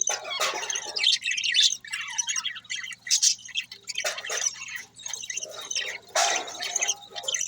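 Budgerigars chattering: a busy, continuous run of short chirps, warbles and squawks, with louder bursts about three and six seconds in.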